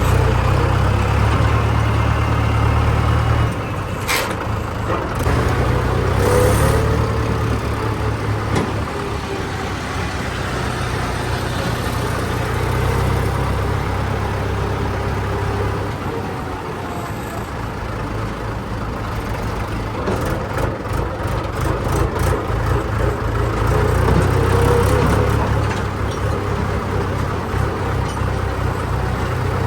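Heavy diesel machinery running, with the engine note getting louder and quieter several times as the load changes, and a few sharp knocks, several of them close together about two-thirds of the way in.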